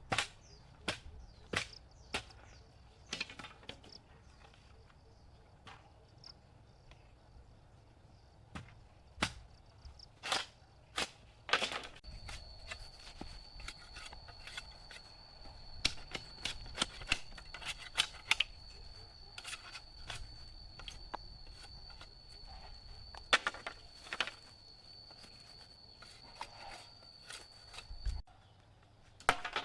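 Irregular sharp clicks and knocks, some close together. From about twelve seconds in, a steady high thin tone joins them and stops suddenly near the end.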